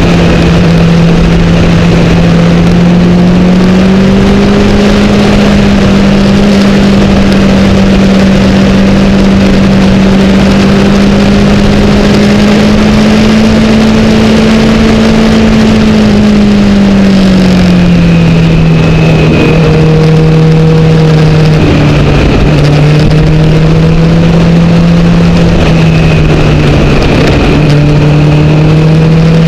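Honda CBR1000RR's inline-four engine running at steady high revs under wind rush. Its pitch rises slightly a few seconds in, holds, then falls about halfway through as the bike slows for a bend, and stays at a lower steady pitch.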